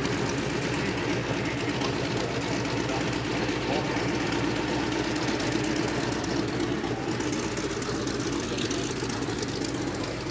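Piston aircraft engine droning steadily as it flies a display, a steady pitched hum over a low rumble.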